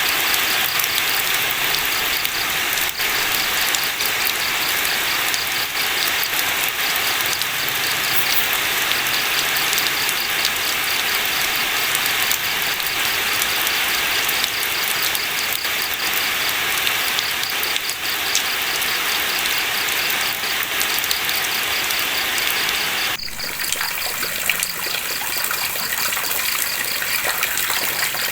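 Steady, heavy rain with a fast, even ticking running through it; the sound shifts abruptly about 23 seconds in.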